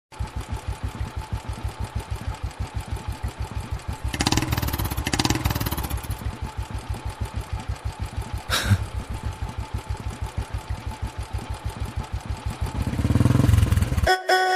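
A vehicle engine, most like a motorcycle, running with a steady low pulsing beat of about seven or eight beats a second. It gets louder for a moment about four seconds in, gives one sharp click near the middle, and cuts off suddenly just before the end as music begins.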